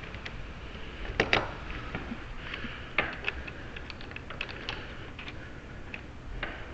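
Small scattered clicks and taps of lock hardware and tools being handled. There is a pair of sharper clicks just over a second in and another about three seconds in.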